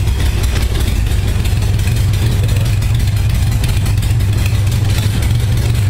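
1978 Honda Goldwing's flat-four engine idling steadily as it warms up from a cold start. The idle is even, with its four carburettors freshly synchronized.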